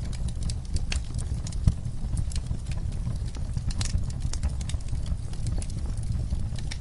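Wood fire crackling, with irregular sharp pops and snaps over a steady low rumble of flames. One louder pop comes nearly two seconds in.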